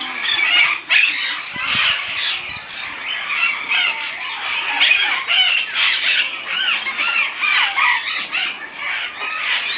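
Many parrots calling and squawking over one another: a dense, unbroken chorus of short, rising-and-falling calls.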